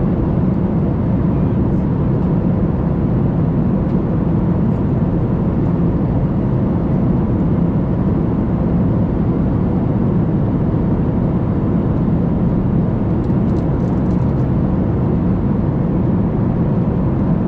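Steady cabin noise of a Boeing 737 MAX 8 in cruise: a constant low rush of airflow and engine hum, with a faint steady tone above it.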